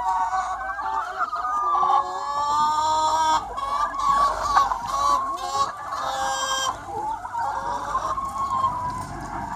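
A large free-range chicken flock, many hens clucking and calling over one another without a break, with a few sharper, higher squawks among them.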